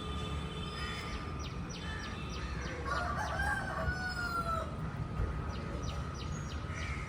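A rooster crows once, about three seconds in, over a steady low background hum. Before and after the crow comes a quick run of high, evenly spaced clicks.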